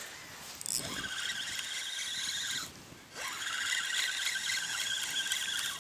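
Spinning reel on a feeder rod being cranked, a steady geared whir that stops briefly about three seconds in and then resumes: the line being reeled in after a small bite.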